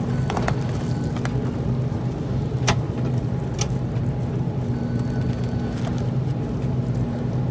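A steady low machine hum with a few sharp clicks and knocks, the loudest about two and a half seconds in.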